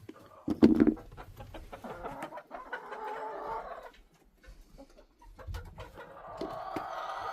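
Hens clucking and calling, with a short thump under a second in.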